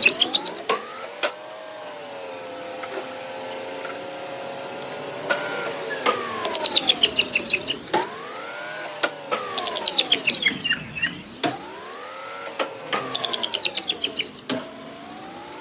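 Electric machine motors whining, sweeping up and down in pitch over and over, with several bursts of rapid sharp clicking.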